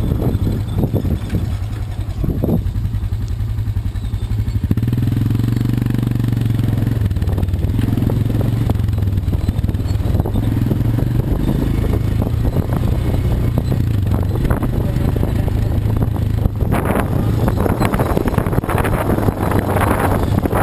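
Quad bike (ATV) engine running with a steady low drone that grows stronger about five seconds in, with knocks and rattles throughout.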